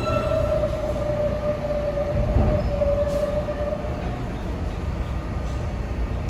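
New York City subway train running with a low rumble, a steady squealing tone riding over it for the first four seconds or so.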